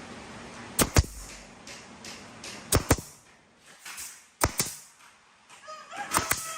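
Hammer blows on wood, struck in pairs of two quick knocks about every second and a half, four pairs in all. Near the end a cat meows, one drawn-out call falling in pitch.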